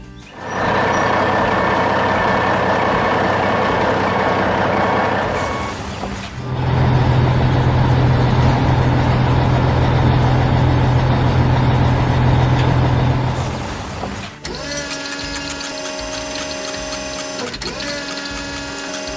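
Sound effects of a heavy construction machine's engine running. It starts with a noisy hiss and whine, becomes a deep steady hum for about seven seconds, then changes to a steadier mechanical whirr with held tones near the end.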